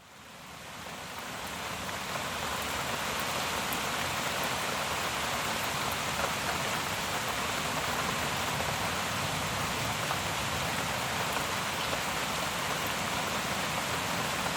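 Steady rain falling, fading in over the first couple of seconds, with a few faint ticks of drops.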